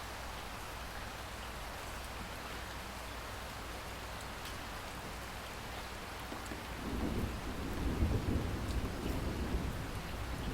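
Steady rain falling, with faint drop ticks. About two-thirds of the way in, a low roll of thunder builds, peaks and keeps rumbling.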